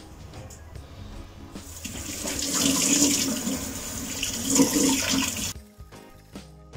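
Water running, as from a tap into a sink, for about four seconds, then cutting off suddenly.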